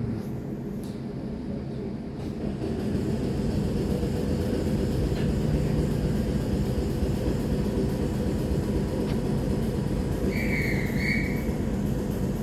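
Moving train heard from inside the carriage: a steady low rumble of wheels and running gear, growing louder about two and a half seconds in. Two short high tones sound close together near the end.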